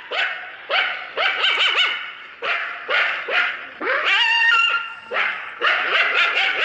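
A rapid series of short, high-pitched vocal calls, each with a wavering, sliding pitch, following one another with brief gaps.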